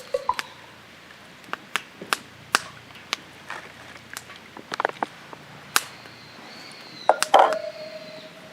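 Scattered sharp clicks and knocks at an uneven pace. About seven seconds in, a short clatter leaves a ringing tone that dies away over about a second.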